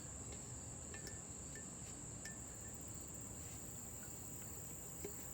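Steady high-pitched insect trill, with a few faint light clicks.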